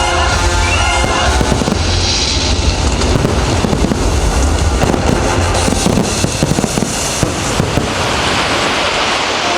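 Fireworks bursting and crackling over loud show music, with a dense run of crackles past the middle.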